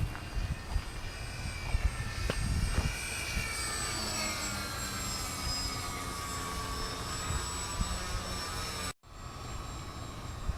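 Twin electric motors and propellers of an E-flite P-38 Lightning RC model plane whining in flight. The pitch slides down a few seconds in as the plane passes, and wind rumbles on the microphone. The sound cuts out for a moment near the end.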